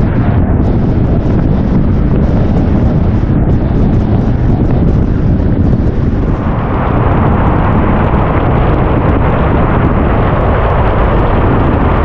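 Car driving in heavy rain: a steady low rumble of road and tyre noise under the hiss of rain and spray, which grows louder and brighter about six seconds in.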